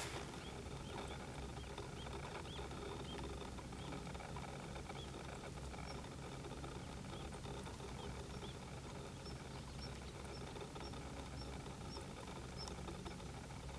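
A distant bird giving faint, thin chirps about two a second, first at a lower pitch, then from about nine seconds in at a higher pitch, over a steady low background rumble.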